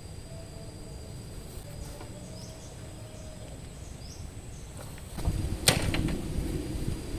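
Quiet forest ambience with a few faint high chirps, then about five seconds in a gust of strong wind comes up as a low rumble on the microphone. A single sharp click comes just after the gust starts.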